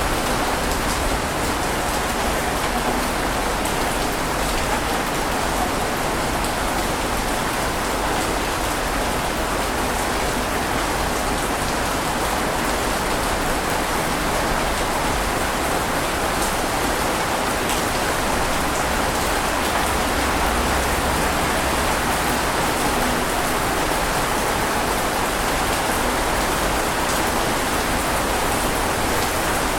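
Steady rain falling, an even hiss of many drops hitting a surface, with no change in intensity.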